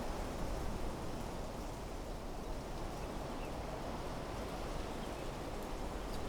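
Wind blowing steadily through trees and shrubs: an even rushing with a low rumble underneath.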